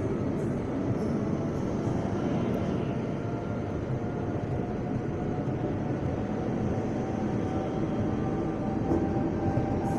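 Electric commuter train moving alongside the platform: a steady rumble of wheels and running gear, with faint steady humming tones from the traction equipment.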